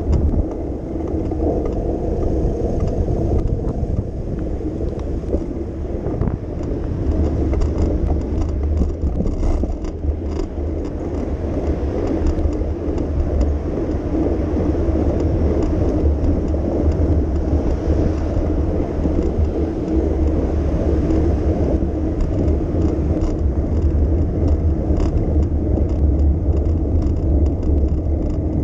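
Steady rumble of riding a bicycle along city streets: tyre and road noise with car traffic.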